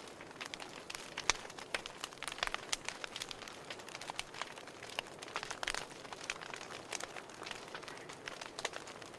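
Fireplace fire crackling: irregular sharp pops and snaps over a soft, steady hiss.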